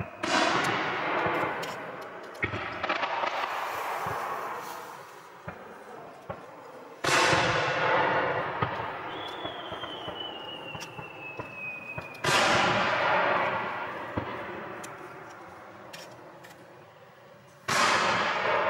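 Aerial fireworks shells bursting: four big booms about five seconds apart, each followed by a long echoing, crackling tail, with a smaller bang about two seconds in. A thin whistle falling in pitch runs for a few seconds in the middle.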